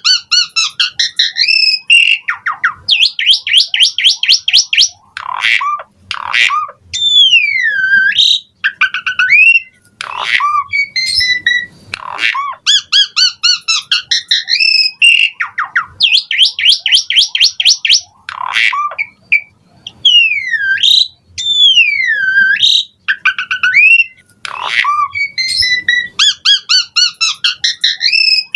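Asian pied myna (jalak suren) singing a long, varied song: fast runs of repeated whistled notes, long whistles that sweep down and back up, and sharp clicks, with short breaks between phrases.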